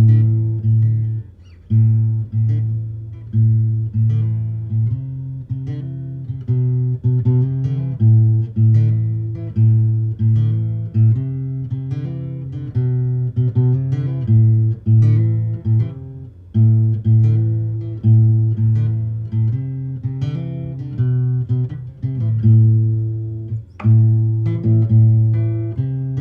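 Acoustic guitar played unplugged: a slow, repeating pattern of picked chords with strong bass notes, each chord ringing out and decaying before the next.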